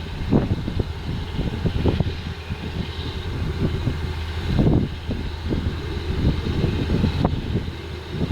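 Potato harvesting machinery running in the field, tractor and harvester: a steady low engine drone under irregular low rumbling.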